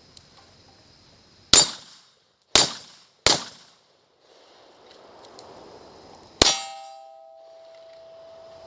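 Four gunshots: three about a second apart, then one more about three seconds later. The last is followed by a steel target ringing for a few seconds.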